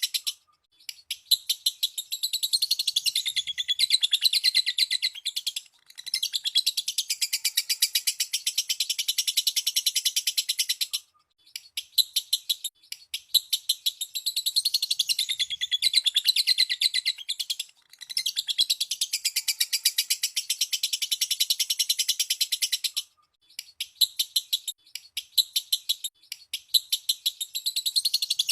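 Lovebird singing the long rapid chatter known as ngekek: fast, evenly repeated shrill notes in bouts of about five seconds, broken by short pauses.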